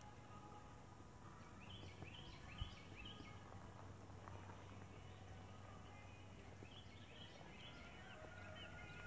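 Faint outdoor ambience: a bird calling in two runs of quick high chirps, over a low steady hum. A single soft tap comes a little after two seconds in.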